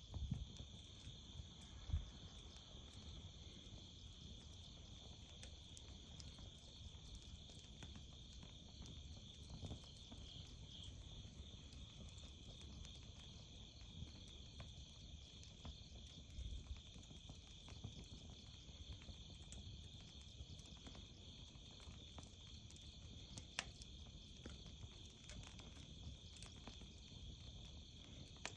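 Faint, steady chorus of crickets, with a few sharp pops and crackles from a hardwood campfire burning, one louder pop a little before the end.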